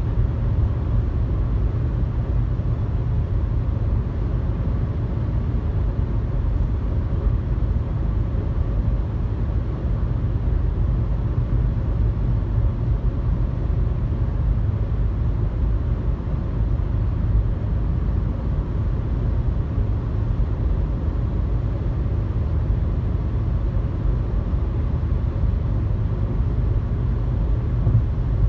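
Steady low road and engine rumble of a car cruising on a highway, heard from inside the cabin.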